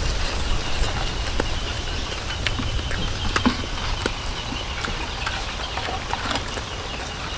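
Crispy fried chicken hearts being chewed and handled: irregular small crunches and clicks over a steady low rumble.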